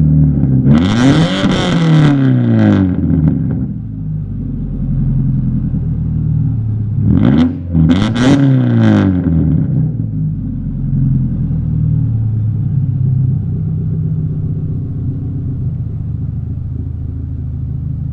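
2007 Subaru Legacy's 2.5-litre flat-four running through a straight-piped dual exhaust. It is revved up and back down near the start, blipped twice in quick succession about seven to nine seconds in, then settles to a steady idle.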